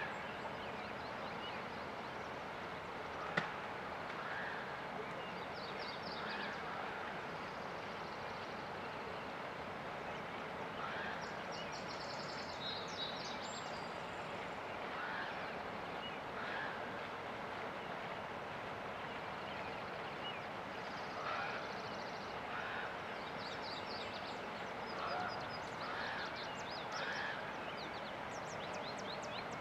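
Steady rushing of river water, with several small birds chirping every second or two and giving quick high trills over it. A single sharp click or knock comes about three seconds in.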